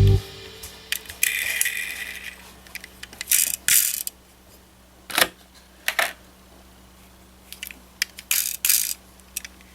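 Scattered light clicks and short rattles of small hard objects being handled, irregular and a second or so apart, over a faint steady hum.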